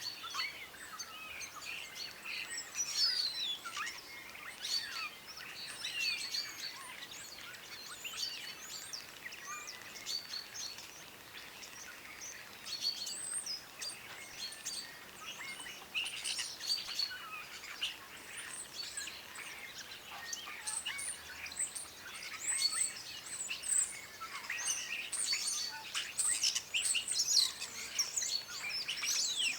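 Several birds chirping and calling at once: many short, overlapping chirps and quick whistled glides, heaviest near the end.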